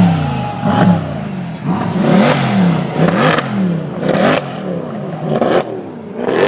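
Mercedes-Benz C63 AMG V8 exhaust, the engine revved hard again and again so the note rises and falls about once a second, with a rasp at each peak.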